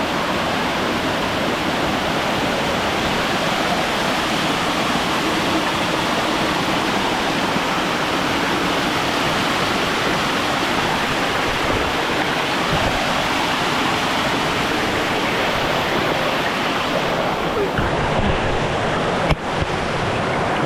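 Waterfall: a steady rush of falling water, broken by a brief dip near the end.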